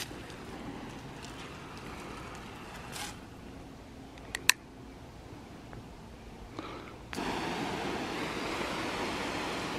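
Water spraying from a DRAMM rain wand on a garden hose. A faint steady hiss, then a single sharp click about four and a half seconds in. About seven seconds in the spray becomes a louder, steady hiss as the pattern changes from the stream setting to the fan setting.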